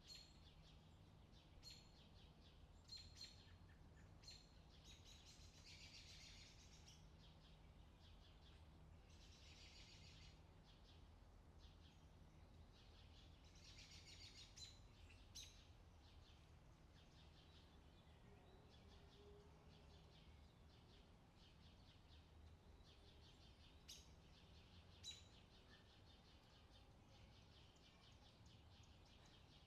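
Faint outdoor summer ambience: birds chirping on and off, with a few longer trilling stretches, over a low steady hum.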